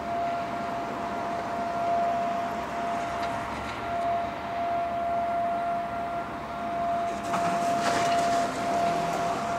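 Old World War II–style air raid siren sounding a single steady tone, called out for a fire or a fire alarm, over the steady noise of a freight train. There is a brief burst of noise about seven seconds in.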